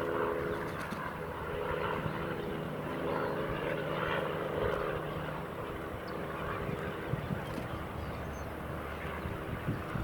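A steady engine drone with several held tones, like a propeller aircraft or other motor running in the distance.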